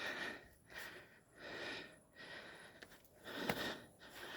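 A man breathing hard, quick heavy breaths in and out a little faster than one a second, winded from climbing a steep hill. A single sharp click about three and a half seconds in.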